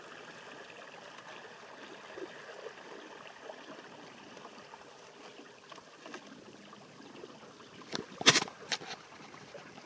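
Water trickling and gurgling along the hull of a kayak moving under a 30 lb thrust electric trolling motor, with a faint high whine that fades after a few seconds. A short loud burst of noise comes about eight seconds in.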